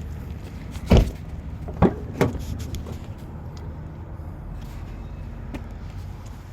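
Three thumps over a steady low rumble: one about a second in, the loudest, then two close together near two seconds.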